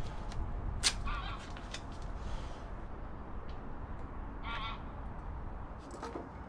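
Two short bird calls, one about a second in and another about four and a half seconds in, over a steady low rumble, with a few light clicks.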